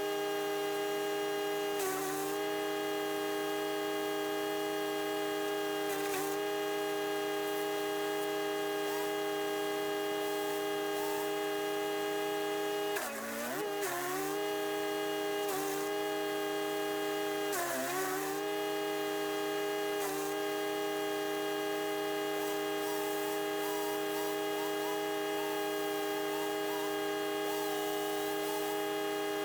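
Chipease D1500E wood chipper's 420cc four-stroke engine running at a steady high speed. Several times the pitch briefly sags and recovers, the deepest about 13 seconds in: the engine taking load as material is fed to the blades.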